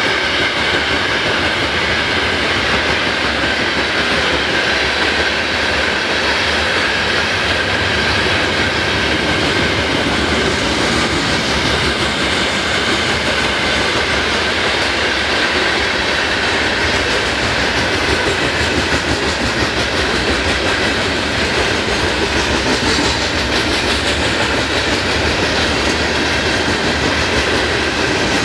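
Freight train cars rolling past, a steady rumble and clatter of steel wheels on the rails, with a faint high whine held underneath.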